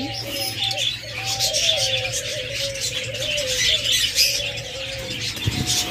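Many small cage birds chirping together, with a dove cooing in a low, wavering tone underneath that stops about five seconds in.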